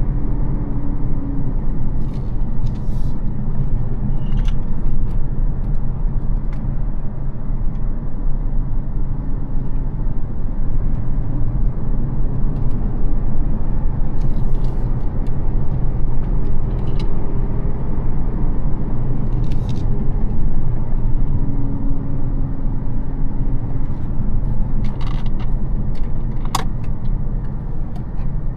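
A Mercedes CL600's 5.5-litre twin-turbo V12 (M275) pulls the car along at a steady drive, mixed with road and tyre noise. The engine note drifts gently up and down in pitch. A few brief sharp clicks or ticks come through at scattered moments.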